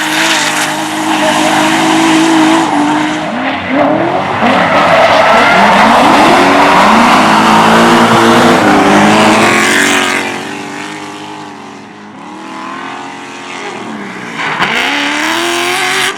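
Drift car's engine revving up and down as it slides past with tyres squealing, loudest around the middle, then fading away after about ten seconds. Another car's engine rises near the end.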